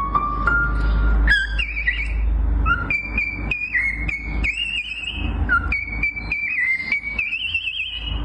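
A pet cockatiel whistling a tune: high, clear notes that slide and warble, repeated in short phrases, over background music. The bird starts about a second in, after steady musical tones.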